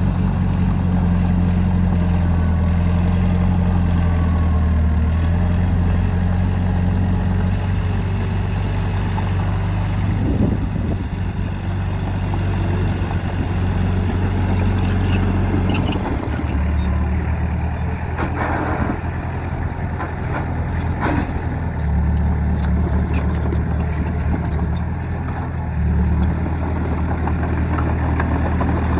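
Heavy-equipment diesel engine running steadily, its note shifting a few times, with several short knocks and clanks in the second half.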